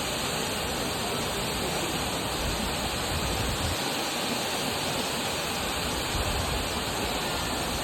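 Multnomah Falls, a 620 ft waterfall, giving a steady rush of falling water.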